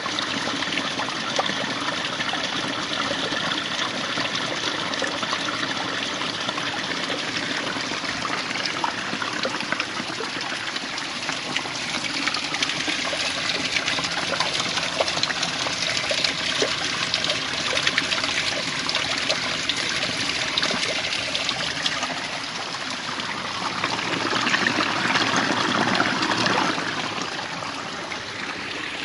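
Strong, fast-flowing water current rushing and splashing steadily, swelling louder for a few seconds near the end.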